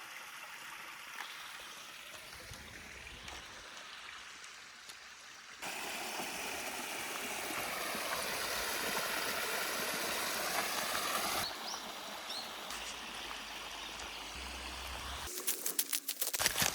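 Small brook flowing steadily, louder for a few seconds in the middle. A few sharp clicks and knocks near the end.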